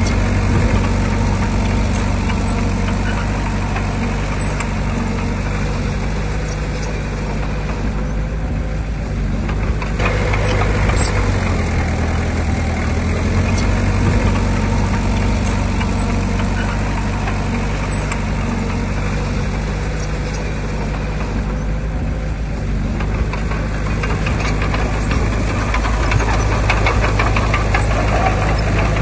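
Heavy-equipment diesel engine running steadily at a low pitch, its note shifting a few times, with faint rapid ticking near the end.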